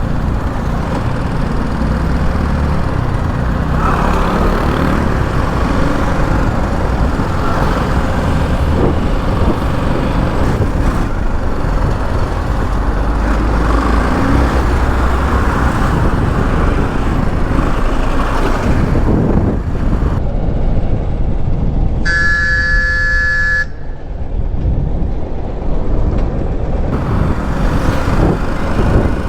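Motorcycle ride on a highway: the BMW G 310 GS's single-cylinder engine running under steady wind and road noise. Near the end a vehicle horn sounds once for about a second and a half.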